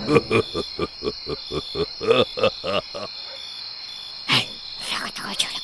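Night ambience sound effects: crickets chirring steadily, with a quick run of about a dozen short pitched calls in the first three seconds and scattered hoot-like owl calls after.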